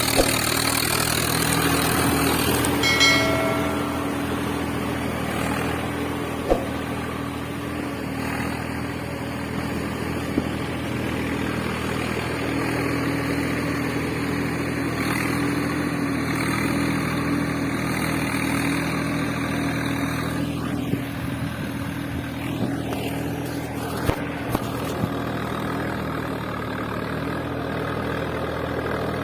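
Small electric motor running with a steady hum, with a few sharp clicks and a short pitched tone about three seconds in.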